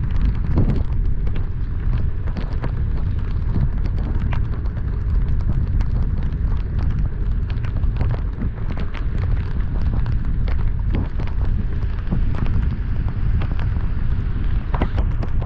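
Heavy rain on a moving car: a steady low rumble of road and wind noise under a constant patter of irregular sharp taps as raindrops strike close to the microphone.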